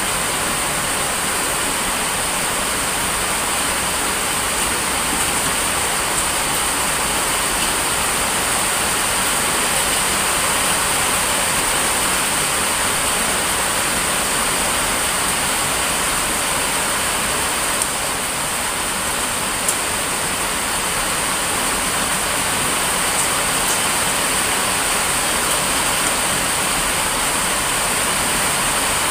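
Heavy rain falling steadily, a loud, even rush of noise with no let-up.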